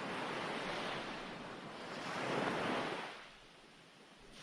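Recorded ocean waves used as sleep background music: surf swelling and breaking, with one wave peaking about halfway through and then a brief lull near the end as the next one builds.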